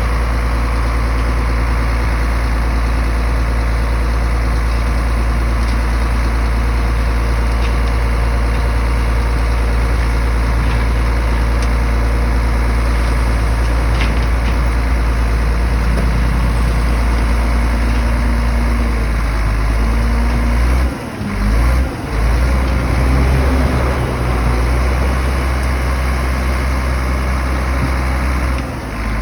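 Heavy diesel bulldozer engine running steadily, with a deep drone. The sound dips abruptly a few times in the last third.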